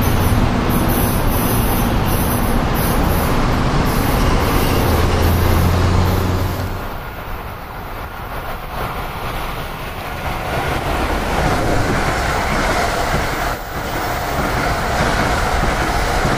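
Train noise. A loud rumble with a low hum drops away about six and a half seconds in. Over the last few seconds an NJ Transit multilevel commuter train's noise builds as it arrives and rolls past along the platform.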